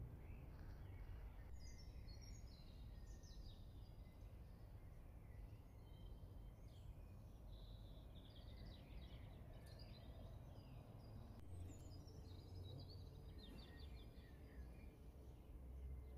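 Faint songbirds chirping and trilling, many short calls scattered throughout, over a low steady rumble.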